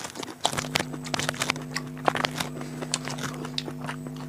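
Biting and chewing fresh pineapple chunks: irregular, sharp mouth clicks and smacks, over a steady low hum.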